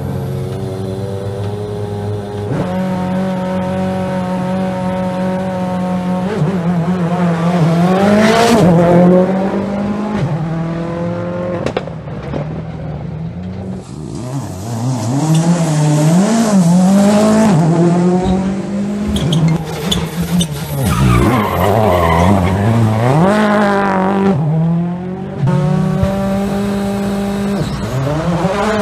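Rally car engines at full effort on a special stage. The engine note holds steady for the first few seconds, then climbs and drops again and again as the cars rev hard through the gears and lift off for the bends.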